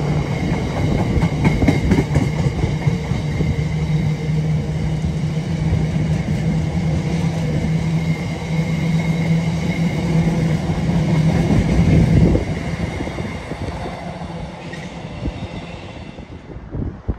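Freight train of empty container flat wagons rolling past, a steady low drone of wheels on rail with scattered clicks over the rail joints. The noise fades from about twelve seconds in as the last wagons pass.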